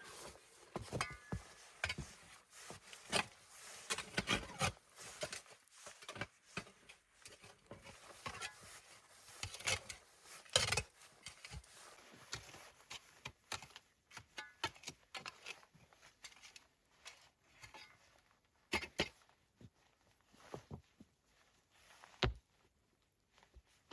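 Irregular knocks, scrapes and rubbing from hands-on work with hard materials such as wood or stone. The sounds are busy for about the first half, then come more sparsely, with a few sharper knocks toward the end.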